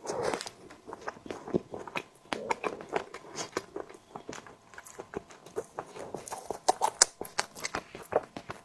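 Close-miked chewing and wet mouth sounds of someone eating a tiger skin dessert, with many small irregular clicks and smacks.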